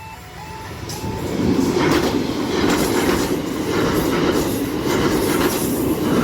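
A level-crossing alarm sounds its two-tone yodel for the first second, then a train passes over the crossing. The train gets loud about a second in and stays loud, a steady rumble with repeated clacks of wheels over rail joints.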